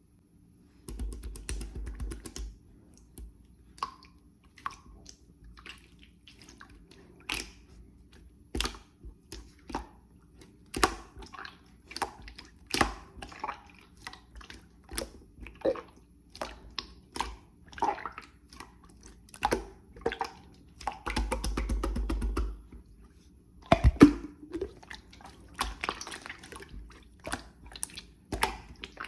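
Clear slime being worked by hand, giving off many irregular sticky clicks and pops, with two stretches of steady noise about a second in and about twenty-one seconds in.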